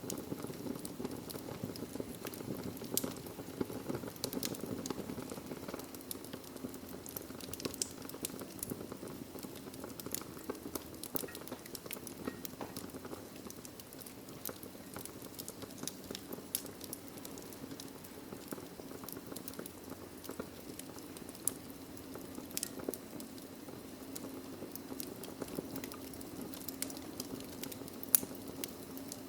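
Wood fire burning in a fireplace: a steady low rush of flames with frequent irregular crackles and small pops from the logs, one louder pop near the end.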